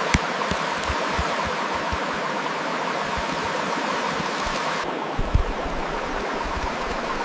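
Steady rushing noise like a flowing stream, with a couple of sharp clicks near the start. About five seconds in, the hiss abruptly loses its highest part, and a few soft low thuds follow.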